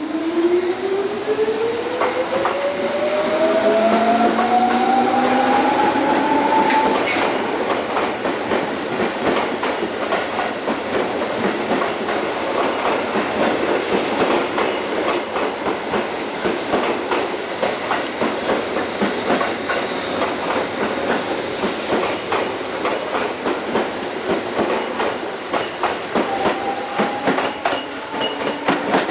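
Tobu 9000 series electric train pulling away, its traction motor whine rising steadily in pitch over the first several seconds. Then a steady clickety-clack of wheels over rail joints.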